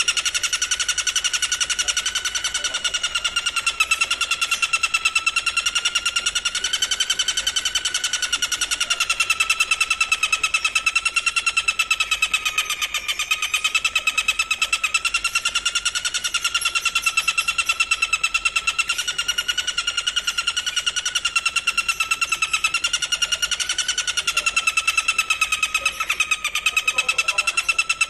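Singing insect stridulating: a continuous, very fast pulsing trill at a steady pitch that wavers only slightly, with no break.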